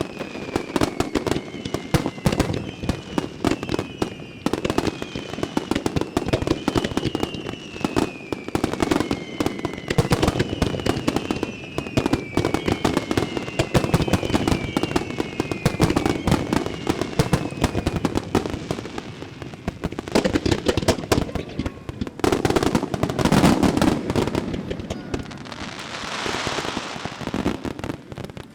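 Starmine fireworks display: a dense rapid-fire string of shell bursts, with many overlapping falling whistles through the first two-thirds. Near the end comes a loud final volley, then a crackling hiss.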